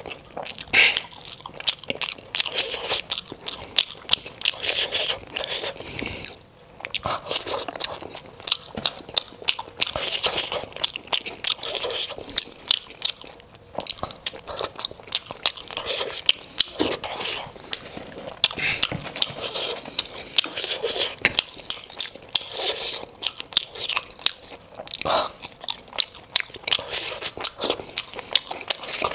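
Close-miked eating of steamed momo dumplings: irregular wet chewing and biting, many small mouth clicks, with brief pauses between mouthfuls.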